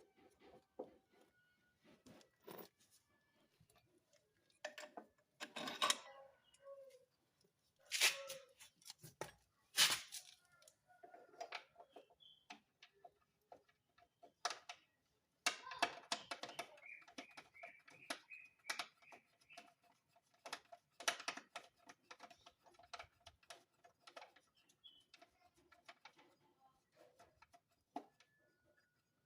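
Hand tools clicking and knocking on metal at irregular intervals, with a few louder clanks, during engine mount work on a car.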